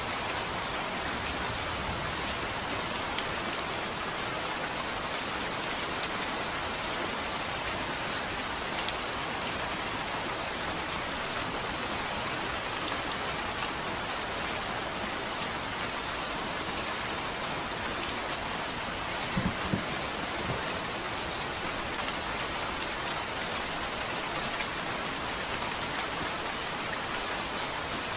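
Steady rain falling, with individual drops ticking now and then. A brief low thump about two-thirds of the way through.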